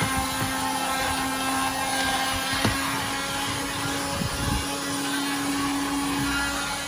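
RAC corded car vacuum, powered from the cigarette lighter socket, running steadily with a constant motor hum, with a couple of light knocks about two and a half and four seconds in.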